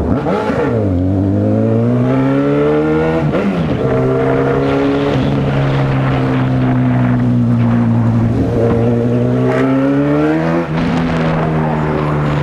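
Honda CB1000R's inline-four engine running under way, its pitch rising under throttle and dropping sharply at gear changes about three seconds in and again near the end, holding steady in between.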